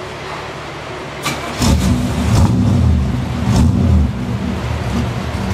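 A 1955 Chevrolet's engine starting: it catches about one and a half seconds in, revs up twice, then settles into a rumbling idle through the twin tailpipes.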